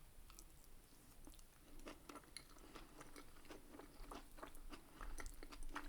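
Close-miked chewing of an Indian rice dish: a quick run of small, faint mouth clicks and crunches, sparse at first and busier from about two seconds in.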